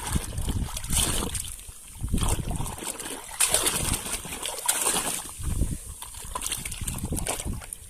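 Water splashing and sloshing in irregular surges as a muddy toy is washed clean.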